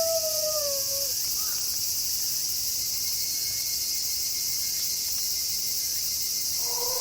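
A wolf's howl slides down in pitch and ends about a second in, leaving a steady chorus of crickets; a new wolf howl begins just before the end.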